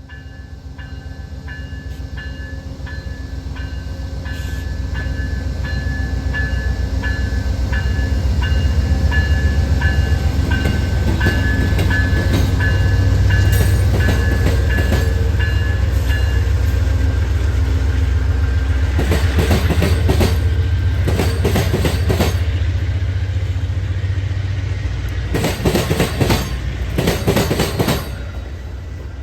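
Amtrak passenger train passing: a deep diesel locomotive rumble builds over the first several seconds and stays loud. A bell rings in quick, evenly spaced strokes until about halfway through. In the last third, the wheels clack in quick runs over rail joints.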